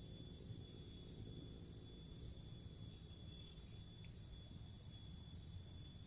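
Faint, steady high-pitched trilling of insects in the forest, several thin unbroken tones, over a low rumble.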